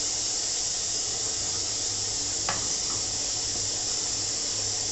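Steady hiss with a low hum underneath, and one light click about two and a half seconds in.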